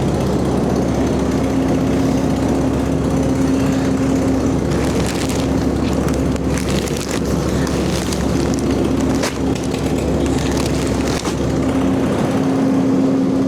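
Old diesel skid steer engine running, its note shifting as it works, with several clattering knocks from the machine and its load.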